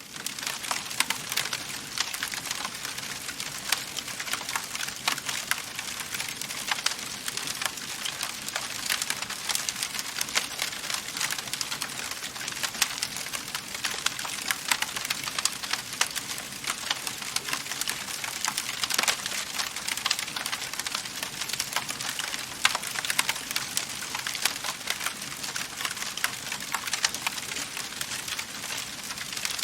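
Wood fire in a fireplace crackling: a dense run of sharp snaps and pops over a steady hiss, a few louder cracks standing out.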